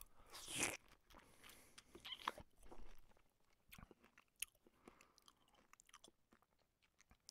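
Faint crunching bites and chewing close to the microphone: a loud crunch about half a second in, another just after two seconds, then scattered mouth clicks and crackles.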